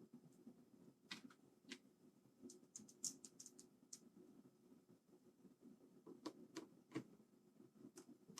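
Faint, scattered small clicks and light scrapes of a screwdriver driving screws back into a mechanical keyboard's case, with a quick run of clicks about three seconds in and a few more later.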